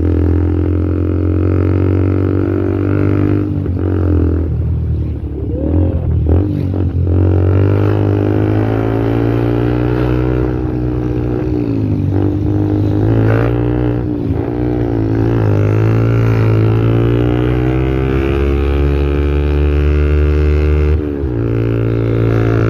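Yamaha Vixion's single-cylinder four-stroke engine running through a Tsukigi SX aftermarket performance exhaust, mostly at a steady idle, with a few short throttle blips where the pitch rises and falls back.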